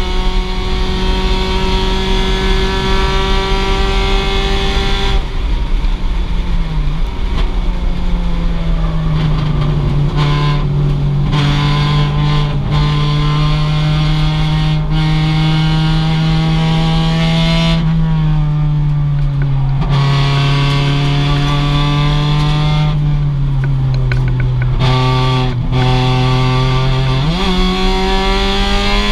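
2006 Mazda MX-5's stock four-cylinder engine under racing load. Its pitch holds high and steady, drops sharply about five seconds in and again around eighteen seconds as it lifts and shifts, then climbs again near the end.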